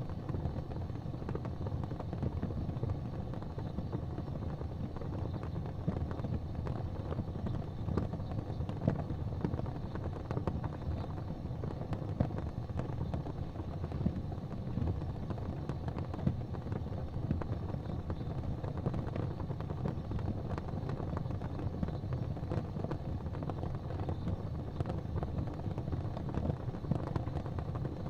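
Fireplace fire burning with frequent small crackles and the occasional louder pop, over a steady low rumble.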